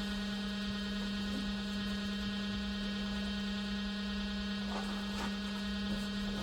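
Cool-mist humidifier running with a steady electric hum.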